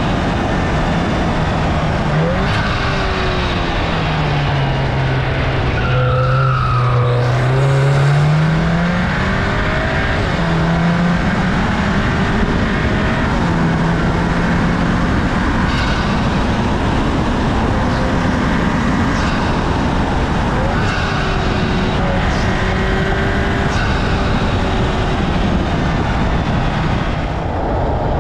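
Audi S3 (8Y) turbocharged 2.0-litre four-cylinder engine pulling the car along, its note sinking over several seconds and climbing again about ten seconds in, with steady road noise throughout.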